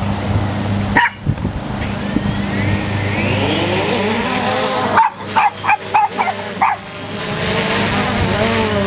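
DJI Phantom 2 Vision quadcopter's propellers whirring, their pitch rising and falling as the motors work against gusting wind. A dog barks once about a second in, then about five quick barks around the middle.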